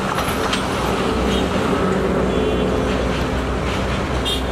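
Passenger coaches of a diesel-hauled intercity train rolling along the track as the rear of the train passes and moves away: a steady rumble with a few irregular clanks from the wheels.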